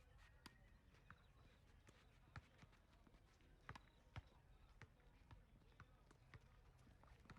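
Faint, irregular taps and knocks on a tennis court, from the players' footsteps and tennis ball bounces, over a low hum.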